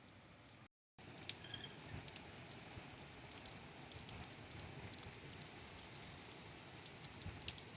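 Heavy rain pouring down, a dense patter of drops spattering on hard surfaces. The sound cuts out completely for a moment just under a second in, then comes back louder.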